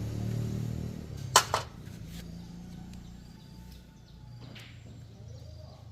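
A vehicle engine's low running sound fades away over the first second, followed by two sharp clicks close together. Faint bird chirps are heard after that.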